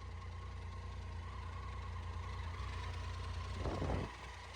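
Motorcycle engine idling steadily, with a brief clatter about four seconds in.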